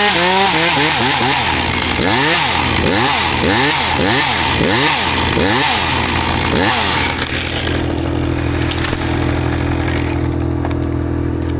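Chainsaw running, its engine pitch rising and falling in quick repeated pulses about every two-thirds of a second, then dropping off about seven seconds in. A steady low engine drone from a wood chipper runs underneath.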